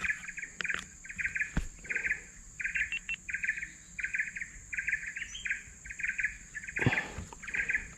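Wildlife sounds: a short buzzy chirp repeated about twice a second over a steady high-pitched insect drone, with a brief rustle about seven seconds in.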